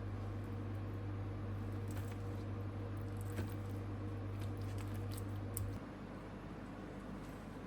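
Steady low electrical hum of a household appliance that cuts off about six seconds in, with a few faint light clicks over it.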